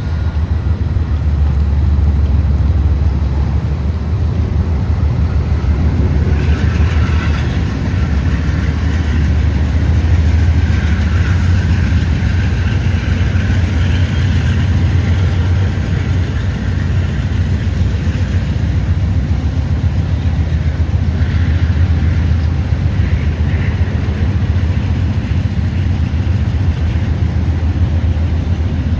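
Norfolk Southern freight train rolling past: a steady low rumble, with a fainter, higher scraping sound coming and going from about six seconds in.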